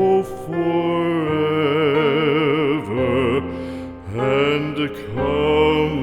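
Slow, sad song: long notes held by a voice with a wide vibrato, with short breaks between the notes.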